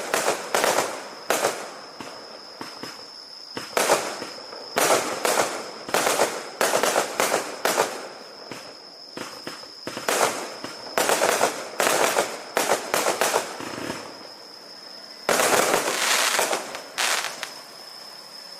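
Fireworks going off in repeated clusters of rapid sharp bangs and crackles, with short lulls between volleys; the last and longest volley comes near the end. A thin steady high tone runs underneath.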